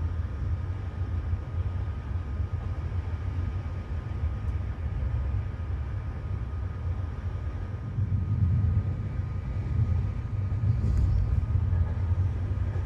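Passenger train running along the line, heard from inside the carriage as a steady low rumble with a faint steady whine above it.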